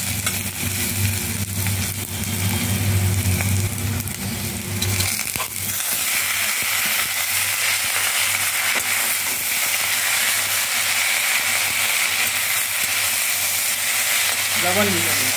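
Sizzling in hot mustard oil in a steel wok as a flat spatula stirs and scrapes, first garlic and chili, then mustard greens. About five seconds in, a low hum underneath stops and the sizzle turns brighter and slightly louder, as the greens go into the pan.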